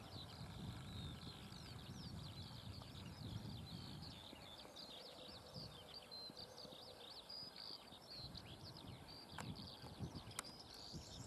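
Faint, continuous twittering of small songbirds, made of many quick rising and falling chirps, over a low rumble, with two sharp clicks near the end.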